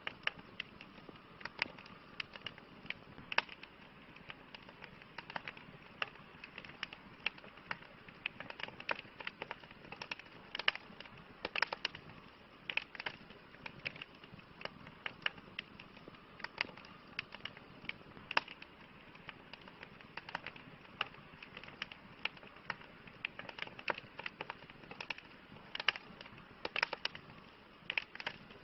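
Wood fire crackling: frequent, irregular sharp pops and snaps over a soft, steady hiss.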